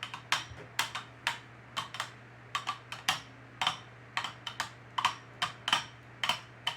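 Two 3D-printed Beyblade spinning tops clashing in a stadium, sharp plastic clacks coming irregularly several times a second over a faint steady hum.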